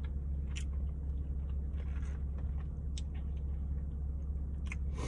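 Close mouth sounds of a person chewing barbecue pork ribs, with a few soft, short smacks and clicks, over a steady low hum inside a car.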